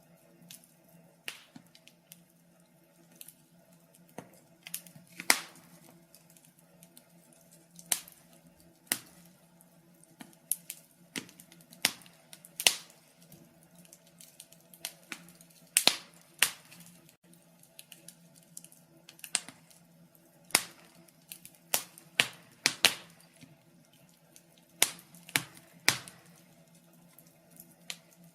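Wood fire crackling: irregular sharp pops and snaps of burning wood, some close together, some after gaps of a second or more, over a faint low steady hum.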